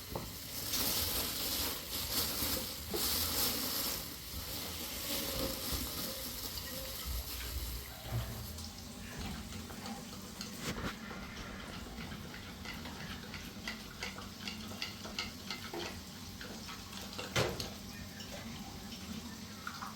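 Food sizzling as it fries in a pan and is stirred. A strong hiss for about the first eight seconds gives way to a quieter sizzle with scattered crackles and clicks.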